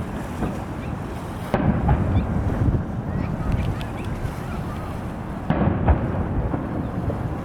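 Fireworks shells bursting: two booms about four seconds apart, each rolling off into a low rumble, over a steady low background noise.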